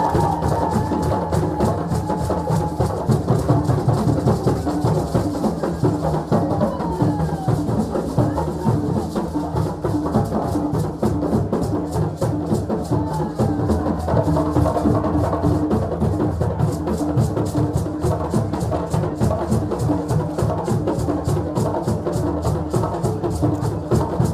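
West African celebration drumming: several drums played in a fast, dense, steady rhythm, with a few brief high calls over it.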